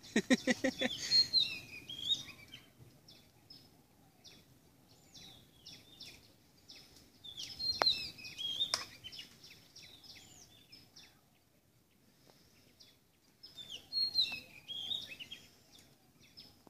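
Small birds chirping in short bursts of high calls that come and go in three spells, with two sharp clicks about eight seconds in.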